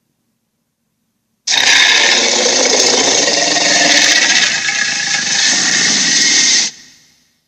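Electronic dragon toy playing one of its sound effects through its small speaker: a loud, harsh, rasping noise that starts about a second and a half in, lasts about five seconds, then cuts off with a short fade.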